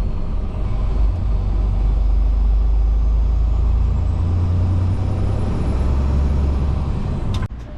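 Steady low rumble of a semi truck, cutting off abruptly near the end.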